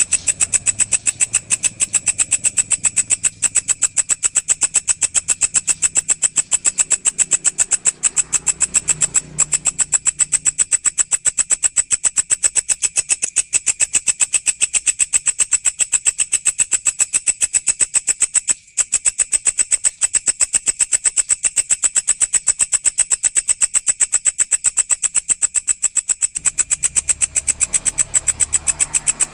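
Walang (grasshopper or katydid) stridulating: a rapid, even pulsing buzz pitched high, going on without a stop except for two brief breaks, about a third of the way in and again past halfway.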